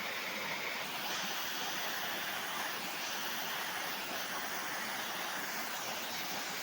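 Waterfall in full monsoon flow: a steady, even rush of falling water.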